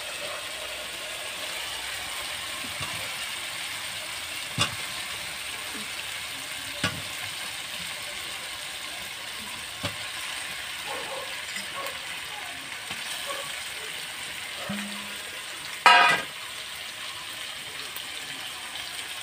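Raw chicken pieces frying in spiced masala in a metal kadai, a steady sizzle. A few knocks of the spoon against the pan are heard, and there is a louder clatter near the end.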